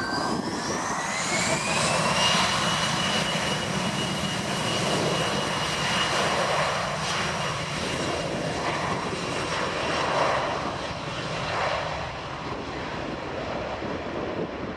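Bombardier CRJ-900 regional jet's twin GE CF34 turbofans at takeoff power. A high whine rises in pitch and levels off about two seconds in, over a steady rush of jet noise.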